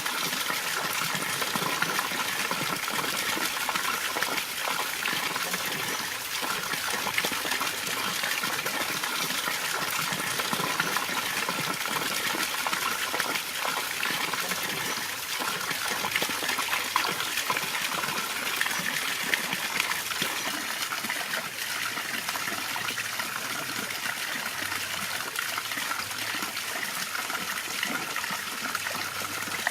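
Water running steadily down a homemade waterfall, pouring and splashing without a break.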